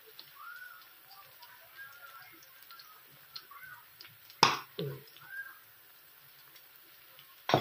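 Diced onions frying in oil in a wok: a faint sizzle with small scattered pops. A single sharp knock about halfway through.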